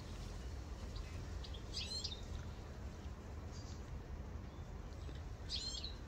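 A small songbird chirping in two short bursts, one about two seconds in and one near the end, with a few fainter single chirps between, over a steady low background rumble.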